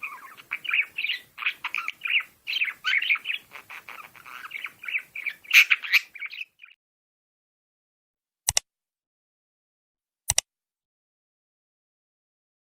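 Several birds chirping and squawking in quick, overlapping calls for about six seconds, then stopping; two sharp clicks follow, about two seconds apart.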